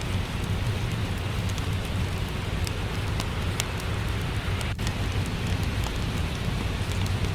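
Steady rain with a deep, even rumble underneath and scattered small pops and crackles of a wood fire.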